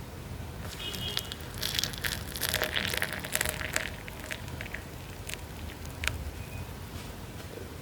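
Tea being prepared: a run of crackling rustles with sharp little clicks and light clinks of teaware, thinning out to a few scattered taps in the second half.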